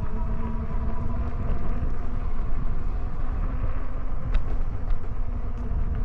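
Riding sounds from a moving e-bike: wind on the microphone and tyre rumble, with a steady hum from the bike's electric hub motor. A few faint clicks sound about four to five seconds in.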